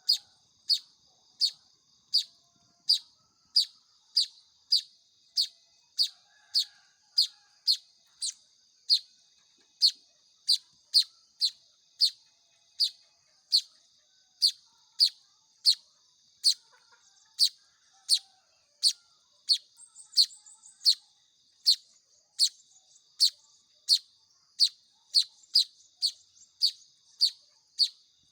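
Young weaver bird (manyar) chick calling: short, sharp, high chirps repeated evenly, about one and a half a second.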